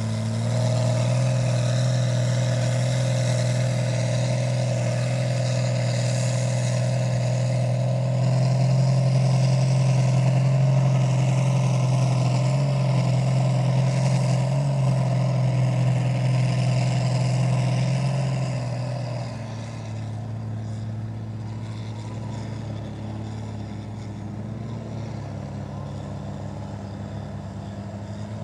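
Mega truck engine held at steady high revs under load, then easing off about 19 seconds in and running on quieter.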